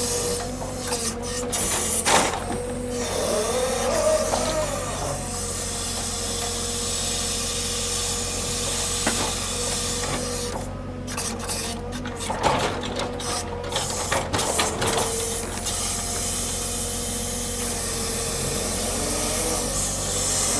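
Log-unloading machinery running steadily with a constant whine over a low hum, with bursts of knocking and clatter about two seconds in and again from about eleven to fifteen seconds.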